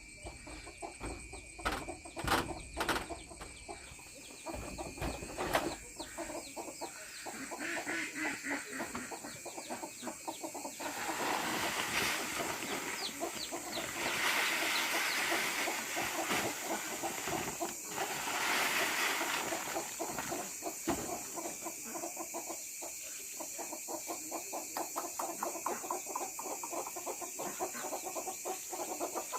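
Chickens clucking, with a few sharp knocks in the first few seconds and a louder stretch of calling in the middle.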